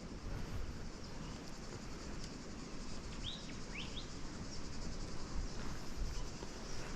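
Two short bird chirps a little past halfway, over a steady low rumble of background noise.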